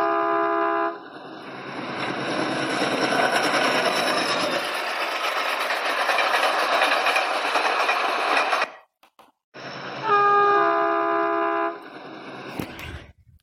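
Train horn sounding a steady chord of several tones, then a train running with a steady rolling noise that cuts off suddenly near the end; the same horn blast sounds again for about two seconds, followed by quieter running noise.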